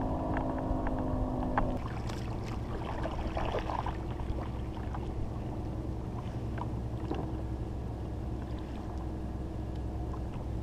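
A steady low rumble of wind and water around a kayak out on the bay, with scattered light knocks and clicks. A steady hum made of several tones cuts off abruptly about two seconds in.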